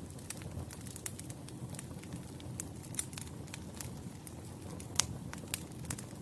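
Wood campfire burning, with frequent small crackles and pops from the burning logs over a low steady rumble of flames; one sharper pop about five seconds in.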